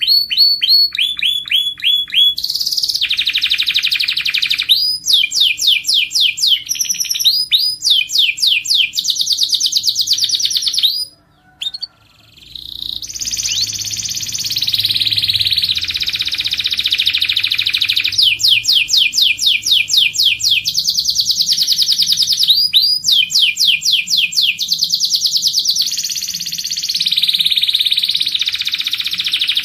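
Domestic canary singing: long phrases of fast repeated trills and rolls, each made of quick notes falling in pitch, with a brief break about eleven seconds in.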